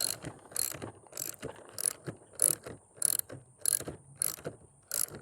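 Socket ratchet wrench clicking in short, evenly spaced strokes, about one every half-second, as a skateboard axle nut is loosened.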